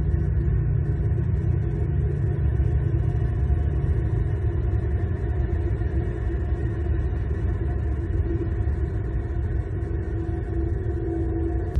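Steady low engine-like rumble with a faint hum, unbroken throughout.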